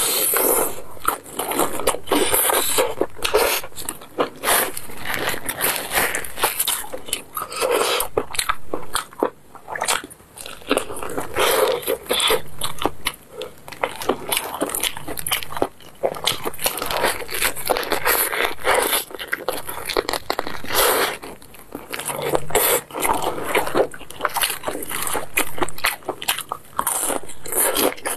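Close-miked crunching and chewing of crispy fried chicken, the crust crackling as it is torn and bitten, in a long run of dense crisp clicks.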